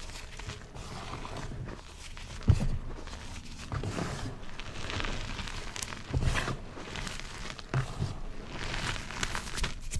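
Gym chalk blocks being crushed: an irregular run of crunching and crackling with scattered dull thuds, the heaviest about two and a half seconds in.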